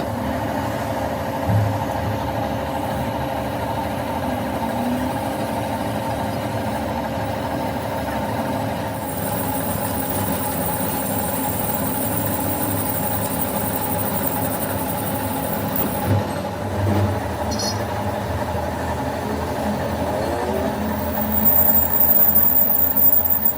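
Machinery running steadily, with a steady hum whose tones change about nine seconds in and again a few seconds later, growing louder near the end.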